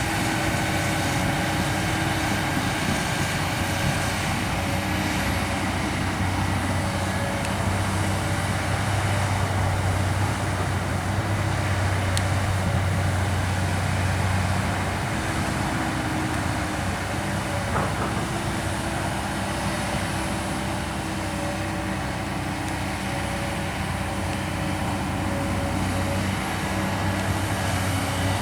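Kobelco SK200 excavator's diesel engine running steadily while digging, a low drone that swells and eases a little as the load changes.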